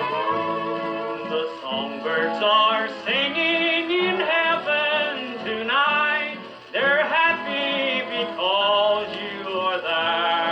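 1940s country record: fiddle with plucked guitar backing and a male voice singing.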